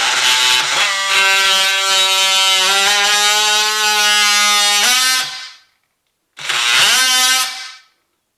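Electric power tool running with a steady buzzing whine as it cuts wood away from a door jamb's strike plate recess, for about five seconds; it stops, then runs again briefly for about a second and a half.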